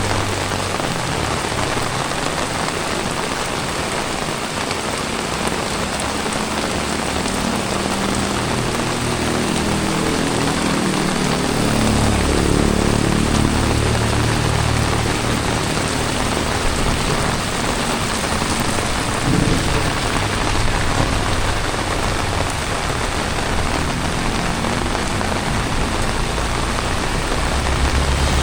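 Heavy tropical rain falling steadily, a dense even hiss. A low rumble comes and goes under it, swelling from about twelve seconds in and again near the end.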